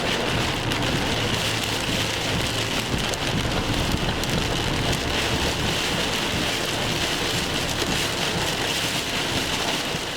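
Steady thunderstorm rain falling on a hard surface: a constant hiss thick with small drop impacts.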